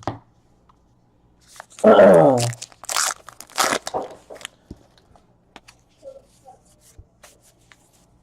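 A trading card pack wrapper being torn open and crinkled. The loudest part is a short rip about two seconds in, followed by a couple of sharp crackles.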